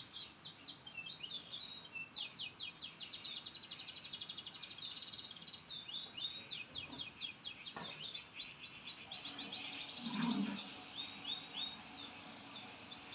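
A murai, a Copsychus songbird, singing a long run of rapid chirps, trills and quick repeated notes. A sharp click comes about eight seconds in, and a brief low rumble about ten seconds in.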